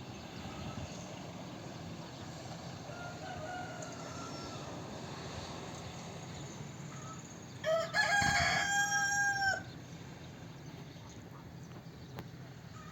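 A rooster crowing once, loud and drawn out for about two seconds, a little past halfway, with fainter, shorter calls earlier. A steady low hum runs underneath.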